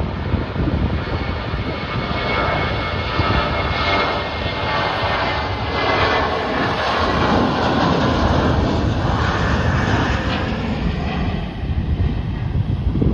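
Jet airliner's engines at takeoff power: a loud, steady rush of engine noise with a faint high whine, swelling a little in the middle and easing near the end.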